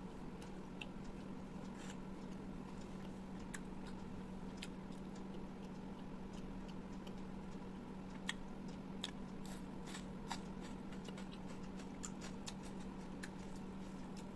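Close-miked eating: chewing with irregular wet mouth clicks and smacks, a little busier in the second half, over a steady low electrical hum.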